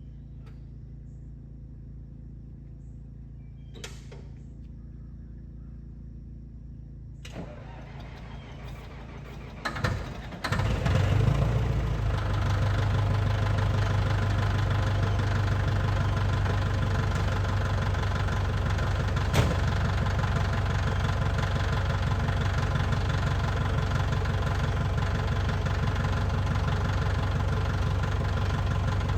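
Track loader's engine cranking briefly about ten seconds in, catching, and settling into a steady cold idle. Before the start there is only a faint low hum with a few small clicks.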